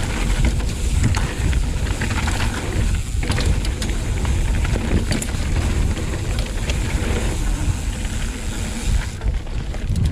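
Mountain bike riding fast down a dirt trail: wind buffeting the microphone over a steady rumble of tyres on the ground, with frequent sharp clicks and rattles from the bike.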